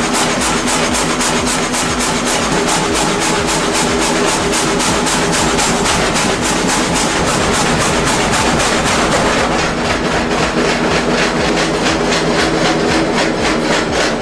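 Engine-driven machinery running loudly, with a steady drone under a fast, even chopping rhythm of several strokes a second.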